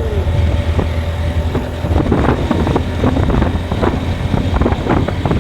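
A vehicle driving along a road: steady low engine and road rumble with wind, broken by frequent short knocks and rattles.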